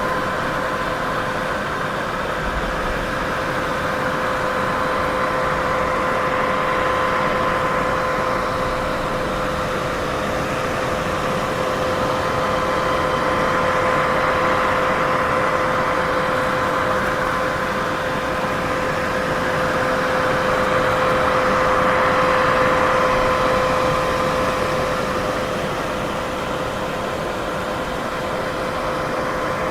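Steady white noise for sleep: an even hiss with a faint steady hum underneath, slowly swelling and easing in loudness.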